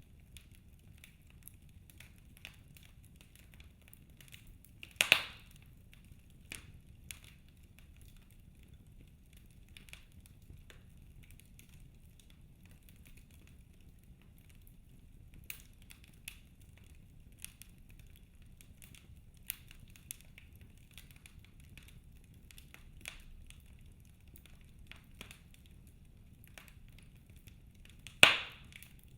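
Wood fire in a fireplace crackling: scattered sharp snaps, with two loud pops about five seconds in and near the end, over a faint low rumble of the flames.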